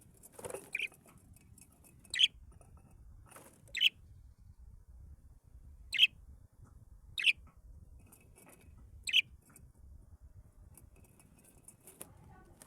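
Pet birds calling: short, sharp chirps, about six of them, one every second or two.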